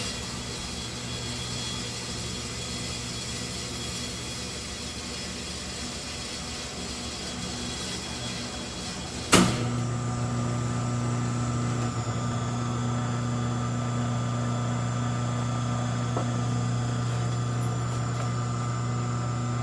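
Homemade rotary phase converter starting up: electric motors running with a steady hum and a high whine, then a sharp click about nine seconds in as 240 volts is switched onto the idler motor, after which the hum is louder and stronger as the converter produces three-phase power.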